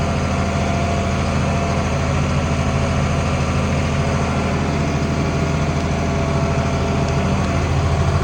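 International Harvester 1566 tractor's turbocharged six-cylinder diesel engine running steadily, heard from inside the cab.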